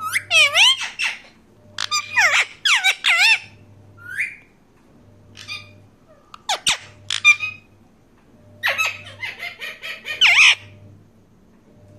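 Pet parakeet squawking and calling in short bursts of gliding, harsh calls, with a quick run of calls near the end.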